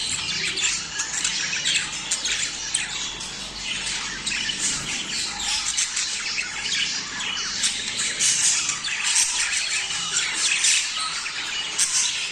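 A flock of budgerigars chattering and squawking without pause, many chirps overlapping, the kind of budgie mating chatter played to caged birds to bring them into breeding condition.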